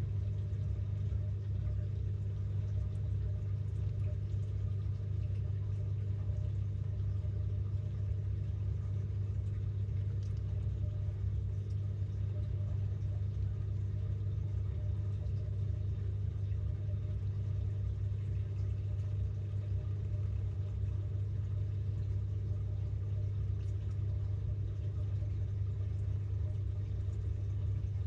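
Samsung 6.5 kg top-load washing machine spinning, heard from inside the drum: a steady low motor hum that does not change.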